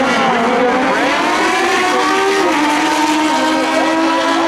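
Naturally aspirated stock superstock sportbike engines at full throttle on a drag-strip pass, more than one engine heard at once. Their pitch holds high, then steps down about two and a half seconds in and again a little after three seconds, as gears are changed.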